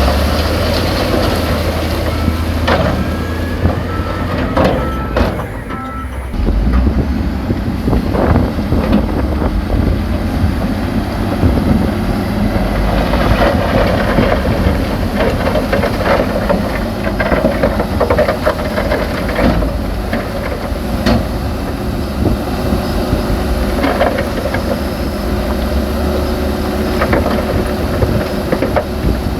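Diesel engine of heavy earthmoving machinery running under load, with scattered clanks and knocks of rock and steel. The engine sound drops briefly about five seconds in, then picks up again.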